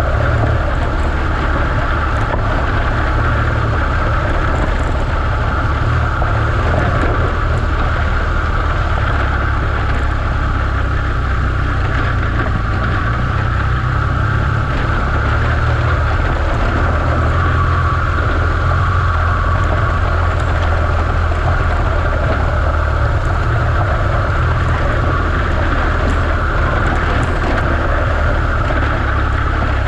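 BMW R1200GS Adventure's boxer-twin engine running steadily as the motorcycle rides along a gravel track at an even pace, a constant low rumble.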